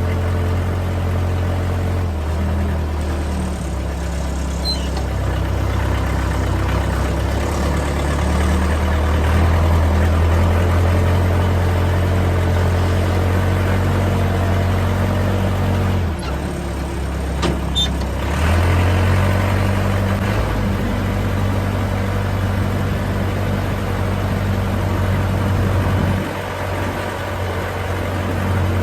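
Case 580C backhoe's diesel engine running after a cold start on starting fluid, a steady hum whose speed shifts a few times, dropping briefly around the middle and again near the end.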